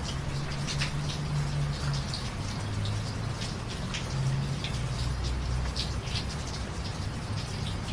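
Steady rain falling, with many distinct drops pattering on a hard surface and a low hum underneath.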